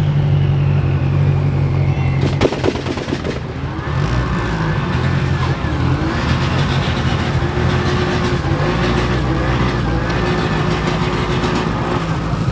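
Classic cars' engines running in slow cruising traffic, a steady low rumble, with a brief clatter about two and a half seconds in.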